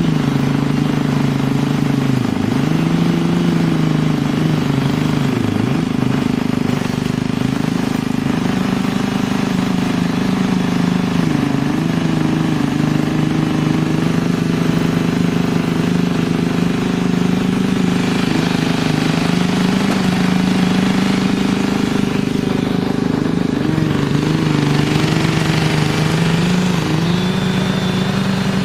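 Engine of a wood-processing machine running steadily at high revs, its pitch sagging briefly several times as it takes load.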